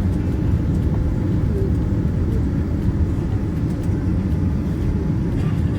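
Steady low rumble of a Boeing 787 airliner heard from inside the cabin: engine and airflow noise.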